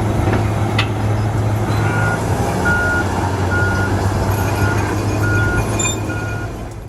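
Komatsu D475 bulldozer's diesel engine running hard with a steady low drone, a couple of metal clanks early on, and from about two seconds in a reversing alarm beeping about once a second, six times.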